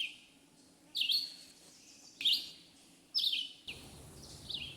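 Red-eyed vireo singing: short, separate phrases about a second apart.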